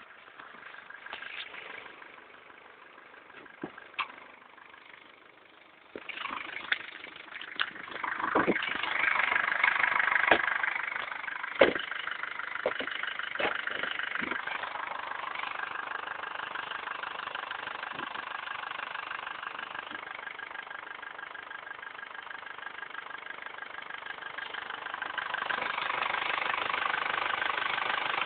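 Nissan Almera Tino 2.2 Di diesel engine cold-starting at -9 °C. After a quiet stretch with a click or two, it starts suddenly about six seconds in, with several sharp knocks over the next few seconds. It then settles into a steady cold idle and gets louder near the end.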